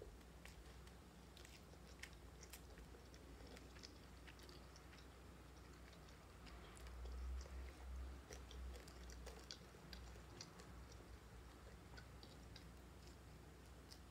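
Faint chewing and small mouth clicks of a person eating cooked dried salted fish and rice by hand. A low rumble rises for a couple of seconds near the middle.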